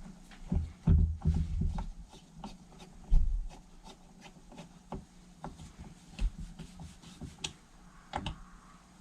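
Small carburettor parts being handled and fitted by hand on a workbench: a few low knocks in the first second and a half, a sharper knock about three seconds in, then scattered light clicks and rubbing.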